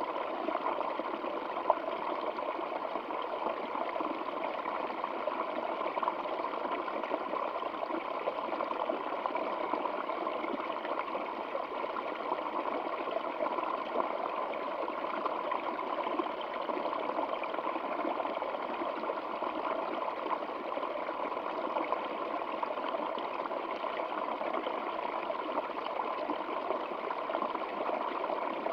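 Stream water flowing steadily over rocks, an even, unbroken rush of running water.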